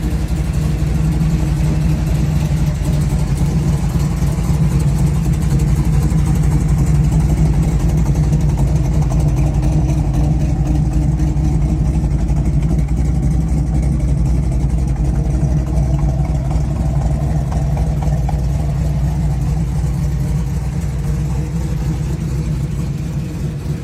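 1968 Chevrolet Camaro's 377 cubic-inch V8 idling steadily.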